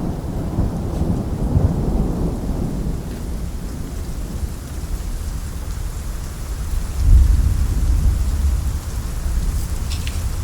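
Rolling thunder over steady rain, a low rumble that swells louder about seven seconds in.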